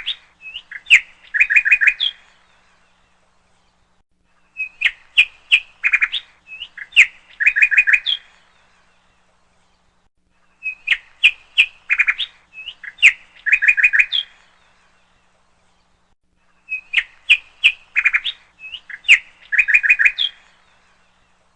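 Bird chirps and short trills in a burst of about three seconds. The identical burst repeats about every six seconds, four times in all, with dead silence between, like a looped bird-call recording.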